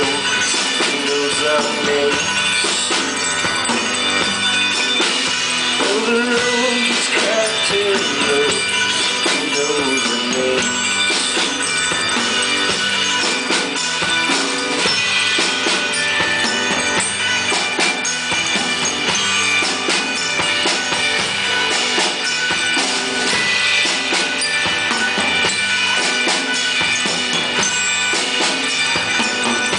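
Live indie rock band playing an instrumental passage of a song, with a full drum kit, tambourine and guitars driving steadily.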